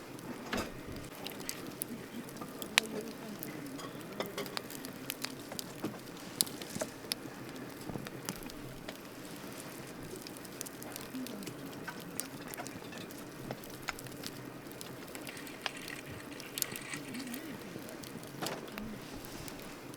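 Wood campfire burning, with irregular crackles and sharp pops over a steady hiss of flame. A loud pop about three seconds in.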